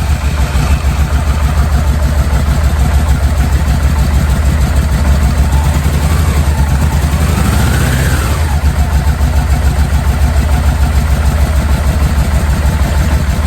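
1986 Yamaha Venture's V4 engine started and running steadily, with its low exhaust rumble, while a compression gauge is fitted in one cylinder and that cylinder's plug is out for a spark check, so it runs on the other three.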